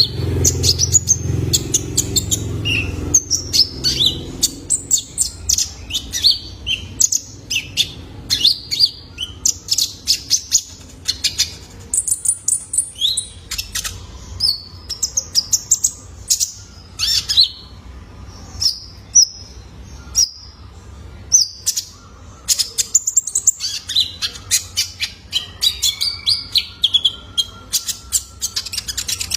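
A young male kolibri ninja (konin) sunbird singing a rapid run of short, high, sharp chirps and twittering trills, with brief gaps between phrases.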